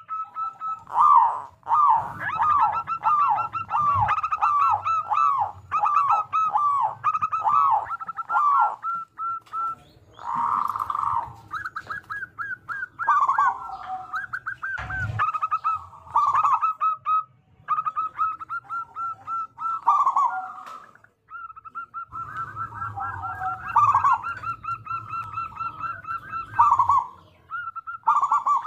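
Zebra doves (perkutut) cooing in quick runs of short, rolling notes with brief pauses between runs. It is the kind of loud dove song played as a lure to set other zebra doves calling.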